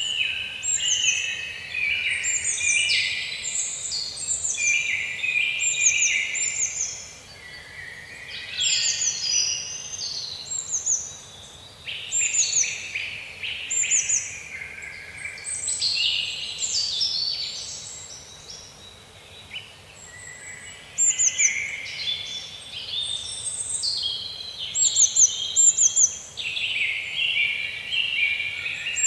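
A chorus of many birds singing and calling at once, with dense overlapping chirps and whistles and a short, high, falling note repeated again and again.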